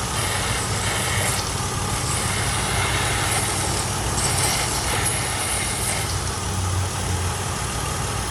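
Car engine idling steadily with a vacuum leak that has set a lean code (P0171), with patches of high hiss over it.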